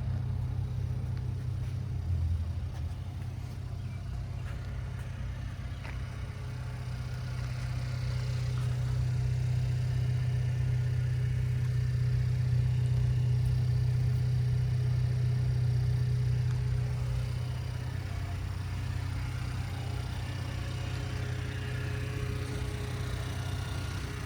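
Buick Cascada's 1.6-litre turbocharged four-cylinder engine idling steadily after a remote start, its low hum swelling louder for about ten seconds midway and then settling back.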